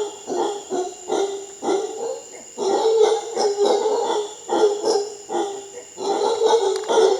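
Howler monkeys roaring: a chorus of repeated guttural, barking calls, several a second, coming in bouts with a brief lull partway through. A steady high-pitched whine runs underneath.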